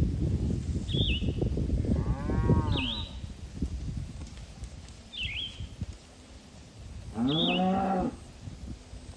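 Cattle mooing twice: a shorter moo about two seconds in and a louder, longer one near the end. A bird gives a short high call every couple of seconds, and a low rustling noise runs through the first three seconds.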